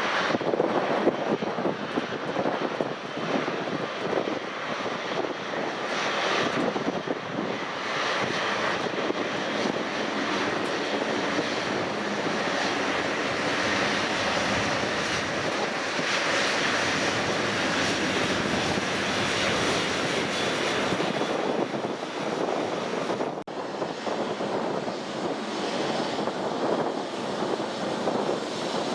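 Airliner engine noise: a continuous broad rumble and hiss that swells to its loudest around the middle, with a brief dropout about 23 seconds in.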